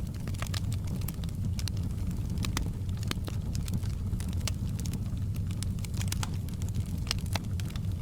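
Campfire burning with a steady low rumble of flames and frequent irregular crackles and pops from the wood.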